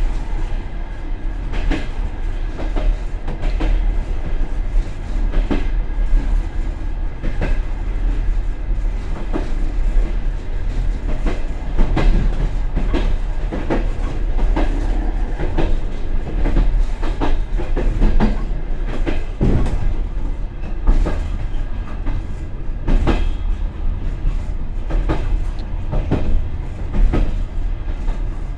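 Express passenger train running on the line, heard from the rear vestibule of its end car: a steady low rumble with irregular sharp wheel clacks over the rail joints.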